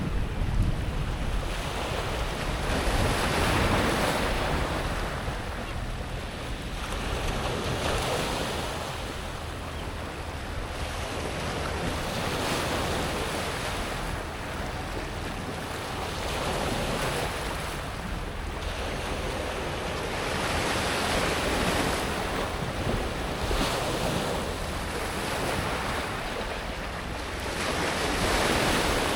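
Small sea waves breaking and washing over a pebble beach, the water hissing and rattling through the pebbles in swells that rise and fade every few seconds.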